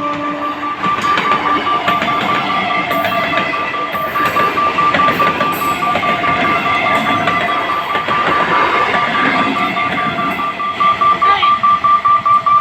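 Electric local train passing a level crossing, its wheels clattering over the rail joints in a quickening regular rhythm near the end. Through it the crossing's warning bell rings a rapid, steady pulsing tone. A horn note ends just after the start.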